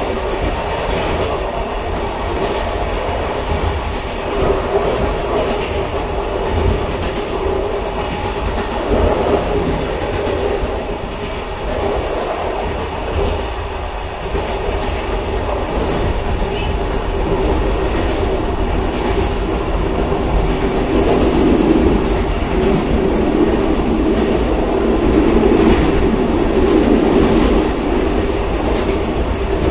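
Railcar running on the track: a steady rumble of wheels on rail with a constant hum, growing a little louder in the last third.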